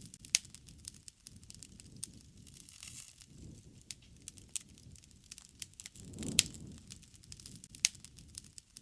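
Wood fire crackling: irregular sharp snaps and pops over a low rushing of the flames, with the loudest snap about two-thirds of the way in.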